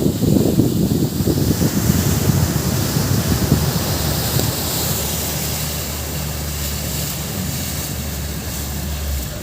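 Wind buffeting the microphone over an engine's low drone for the first few seconds. The wind then eases and the engine hums steadily on its own until just before the end.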